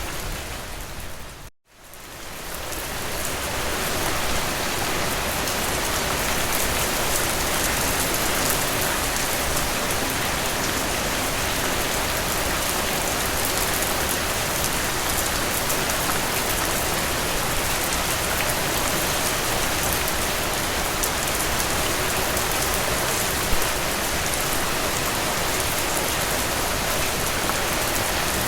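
Heavy rain falling steadily, a dense even hiss of drops. About a second and a half in it briefly fades out to silence, then swells back over the next two seconds.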